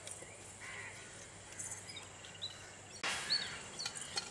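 Birds chirping faintly in an open-air background with a few short, high calls, and a brief louder rustle about three seconds in.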